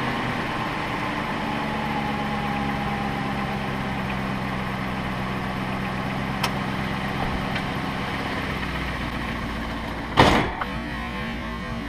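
2004 Cadillac DeVille's Northstar V8 running at idle as the car reverses down off car ramps. A short, loud thump comes near the end.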